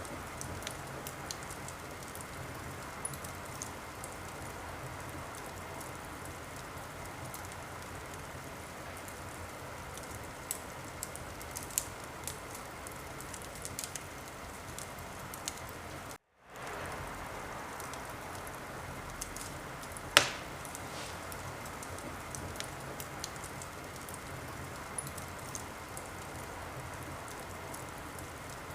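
Wood fire crackling in a fireplace: a steady hiss with scattered sharp pops, one much louder pop about two-thirds of the way through. A little past halfway the sound cuts out to silence for a moment, then fades back in.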